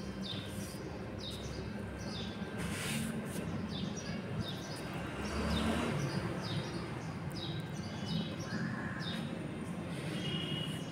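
Small birds chirping over and over, short falling chirps about one or two a second, over a steady low background hum.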